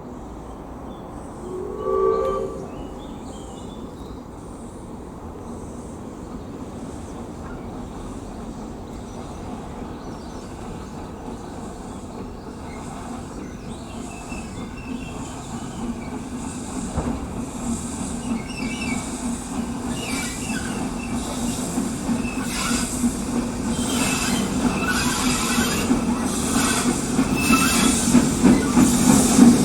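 Preserved industrial or goods steam locomotive approaching with its train, its exhaust beats and running gear growing steadily louder, with wheel and rail noise. A short whistle sounds about two seconds in.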